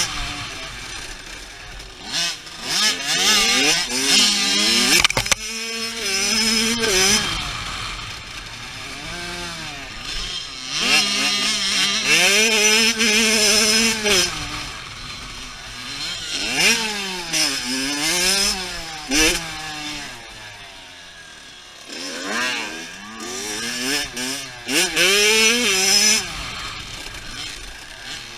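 Dirt bike engine revving up and dropping back repeatedly as it is ridden, its pitch rising through the gears and falling off the throttle many times.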